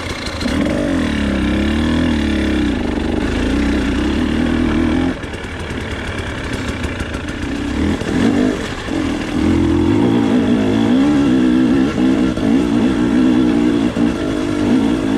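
Off-road motorcycle engine running just after starting, its pitch wavering as the throttle is worked. It eases off about five seconds in and picks up again around eight seconds.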